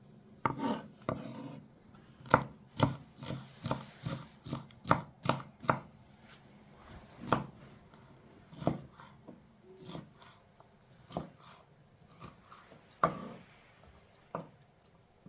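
Knife chopping on a cutting board: sharp separate strokes at about two a second for the first several seconds, then slower and more scattered.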